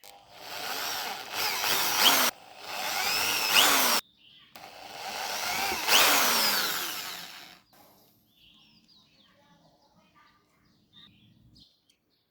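Small power tool running in three bursts, its pitch gliding up and down as it speeds up and slows; the last and longest burst lasts about three seconds. After it a faint steady hum continues and stops shortly before the end, with faint bird chirps.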